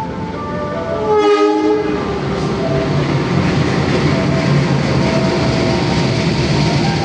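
Passenger train arriving at a station: a short horn blast about a second in, then the steady rumble and rattle of the train rolling in along the platform.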